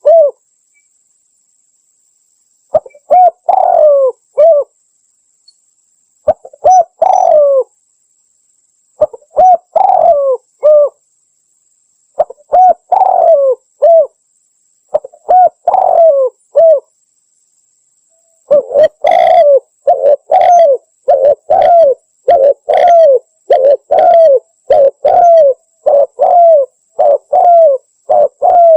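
Spotted dove cooing loudly: short phrases of low coos roughly every three seconds, then from about two-thirds of the way in a faster, unbroken run of coos.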